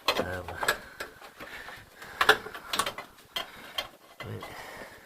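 Metal hand tools clinking and clicking against car bolts, about six sharp knocks and clicks spaced irregularly through the few seconds.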